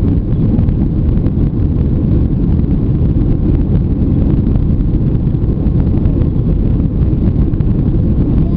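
Steady, loud cabin noise of an airliner during its takeoff climb: jet engines and rushing air, heavy in the low end and unchanging.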